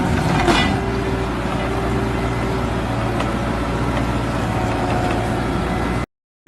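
Heavy stump-removal machine's engine running steadily with a hydraulic auger working a stump, a steady whine over the engine hum that fades about three seconds in. The sound cuts off suddenly near the end.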